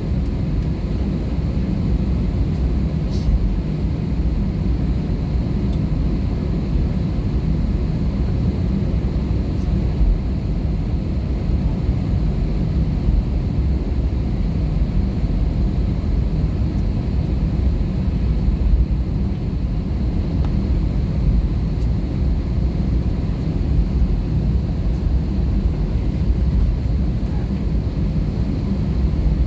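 Airbus A320 cabin noise heard from a forward window seat: a steady low rumble of the engines and airflow, with no change in power.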